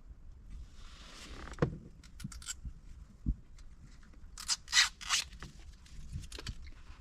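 Handling noise from a dash cam and its mount: scattered small clicks, a low knock about three seconds in, and three short scraping rustles close together near the five-second mark, the loudest sounds here.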